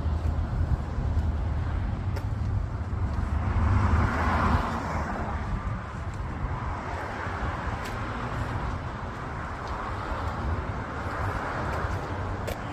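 Motor vehicle engine running outdoors among traffic noise, with a strong low rumble that drops away about four and a half seconds in, followed by swells of passing-vehicle noise.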